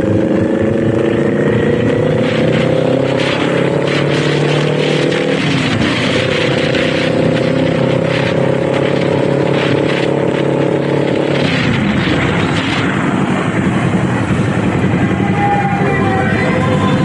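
Kawasaki Z400 parallel-twin engine pulling under throttle on the move, its pitch climbing slowly, with a brief break about five seconds in. About eleven seconds in the engine note drops away as the throttle is rolled off, leaving mostly wind rush.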